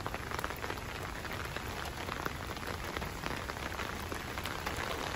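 Steady rain falling on a parked car, with many separate drops ticking.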